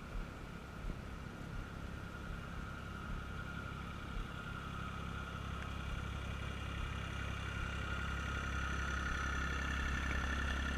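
Boat engine running steadily and slowly growing louder as the boat approaches on the river.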